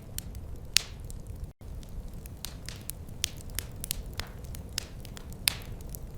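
Wood fire crackling over a steady low rumble, with irregular sharp pops, the loudest just under a second in and about five and a half seconds in. The sound cuts out for an instant about a second and a half in.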